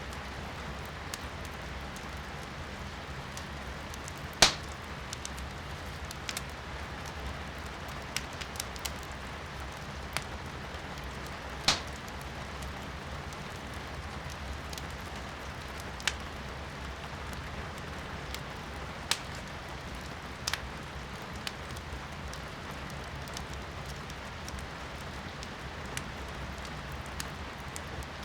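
Firewood burning in a fireplace, crackling with sharp pops every few seconds, the loudest about four and a half and twelve seconds in, over the steady patter of rain heard from indoors.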